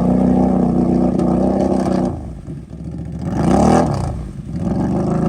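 An off-road vehicle's engine runs steadily, drops away about two seconds in, then briefly revs up and back down before settling into a steady run again.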